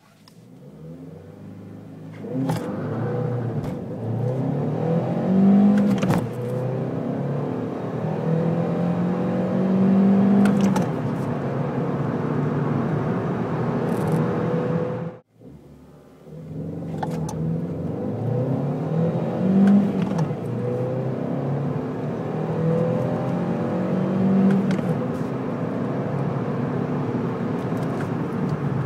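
Seat Leon 1.2 TSI's four-cylinder turbocharged petrol engine accelerating hard from a standstill through the gears of its manual gearbox, heard from inside the cabin. The engine note climbs in pitch, drops at each upshift and climbs again. The run is heard twice, cut off abruptly about halfway through and started again.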